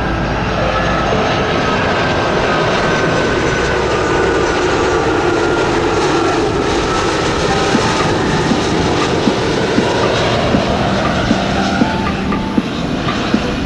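Large jet airliner passing low overhead on its landing approach: a steady, loud jet engine rush with a slow sweep in tone as it goes by, easing slightly near the end.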